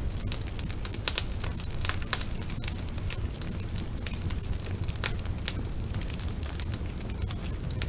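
Wood fire burning in a fireplace, crackling: frequent, irregular sharp pops over a steady low rush of the flames.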